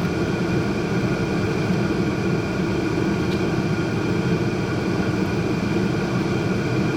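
A steady, unbroken low drone with a few constant humming tones over it, from running machinery.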